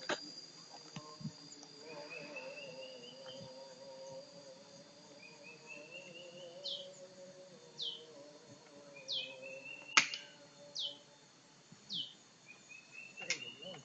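Songbirds calling: short whistled notes falling in pitch repeat every second or so, and a buzzy rising trill comes every few seconds over a faint steady hum. About ten seconds in there is one sharp crack of an air rifle shot.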